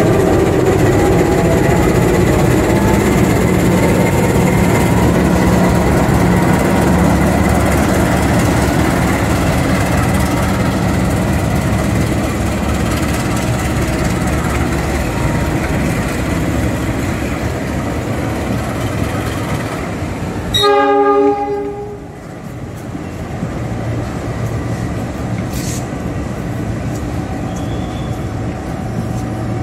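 A train running with a steady low rumble, then one short horn blast about two-thirds of the way through, after which the rumble is quieter.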